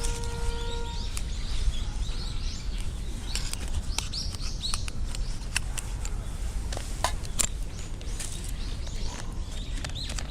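Small birds chirping, with scattered sharp crackles and a steady low rumble underneath; a held chord of background music dies away about a second in.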